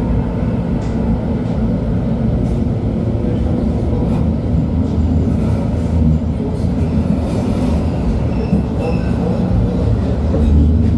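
LHB TW2000 Stadtbahn light-rail car running along the line: a steady low rumble of wheels and running gear under a low hum that grows stronger in the second half and again near the end.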